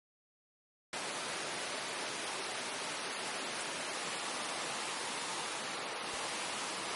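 Steady, even rushing noise that cuts in abruptly about a second in, after a moment of dead silence.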